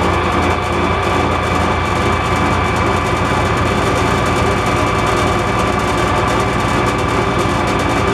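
MAS metal lathe running steadily as it takes a facing cut, a constant low hum with a steady high whine over it.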